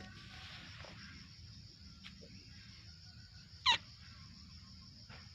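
A single short, high animal call about three and a half seconds in, over a faint steady high drone of insects.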